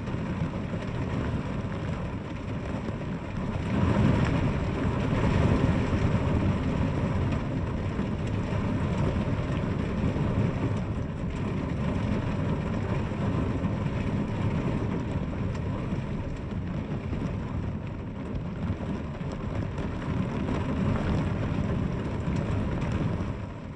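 Steady heavy rain, a dense even hiss with a low rumble underneath, growing a little louder about four seconds in.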